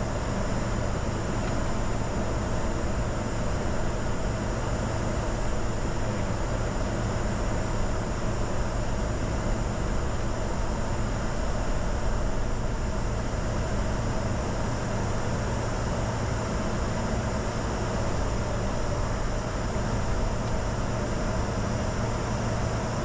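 Steady cockpit noise of a Bombardier Challenger 605 business jet under power, from its twin turbofans and the airflow around the cabin. A constant low hum runs under a rushing noise with a faint high whine, and the level does not change.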